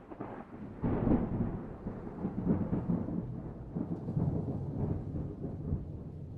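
Rolling thunder: a low rumble that swells suddenly about a second in and keeps rolling in uneven surges.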